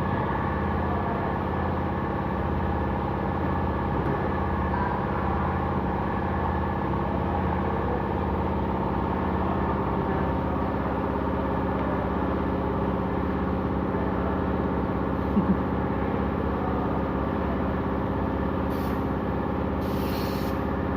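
Steady machine drone with a low throb pulsing about once a second, running unchanged throughout, with brief faint hissing near the end.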